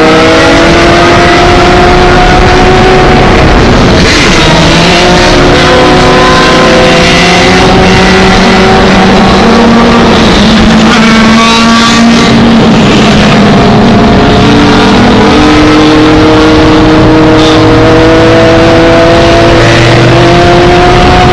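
Several motorcycle engines running and revving at once, very loud and distorted, their pitches overlapping and drifting up and down. One engine revs up in a rising sweep about eleven seconds in.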